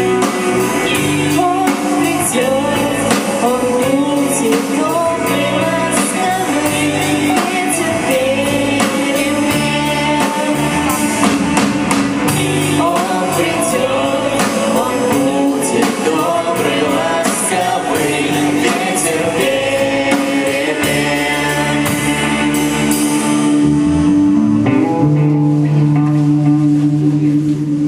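Live band music: the instrumental close of a pop song, with guitar and a drum kit keeping a steady beat. About 24 seconds in, it settles into a long held final chord.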